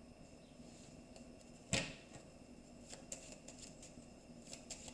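Lenormand cards being handled on a table: one sharp tap a little under two seconds in, then a run of light card clicks and flicks as the deck is worked.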